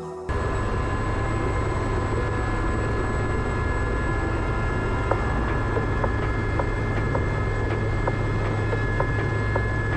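Aérospatiale Gazelle helicopter's turbine engine and rotors running steadily: a constant low drone with steady high whine tones over it, cutting in just after the start.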